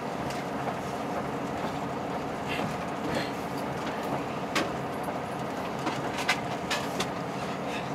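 Cabin sound of a KiHa 183 series diesel limited express train running: a steady rumble of engine and wheels on rail, with several short sharp clicks in the second half.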